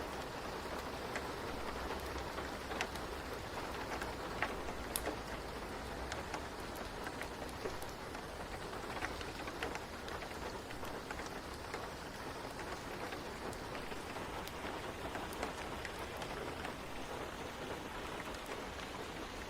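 Steady rain ambience, an even hiss of falling rain, dotted with scattered sharp ticks. A low rumble sits underneath for about the first six seconds, then fades.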